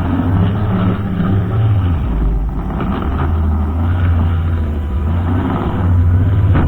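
Brushcutter engine running steadily. Its note drops about two seconds in and picks back up a couple of seconds later, as the throttle or the load on the cutter changes.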